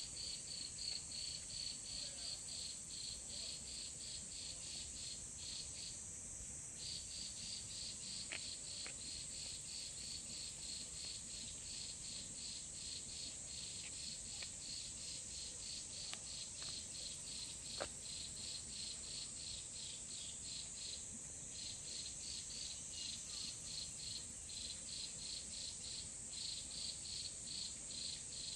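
Insect chirping in a steady pulse, about three to four chirps a second, breaking off briefly twice, over a steady high hiss.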